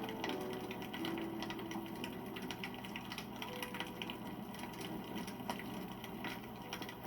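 Wood campfire crackling: a dense, uneven patter of small pops and snaps from the burning wood. A few faint held tones sit underneath.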